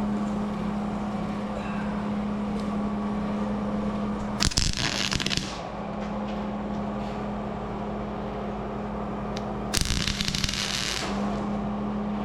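Two short tack welds on the door's sheet metal, each about a second of welding-arc crackle, the first about four seconds in and the second near ten seconds, over a steady low hum.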